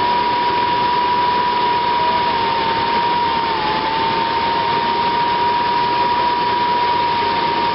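Atwood Hydro Flame 8531-II RV furnace blower motor running on 12-volt DC, out of its casing: a steady high whine over a rush of air. The pitch sags briefly about three and a half seconds in.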